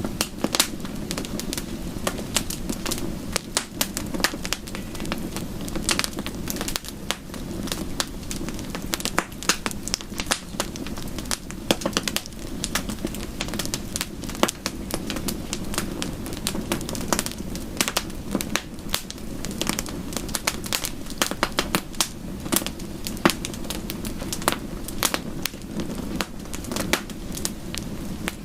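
Wood fire burning in a fireplace, crackling steadily with many irregular sharp pops over a constant low noise of the flames.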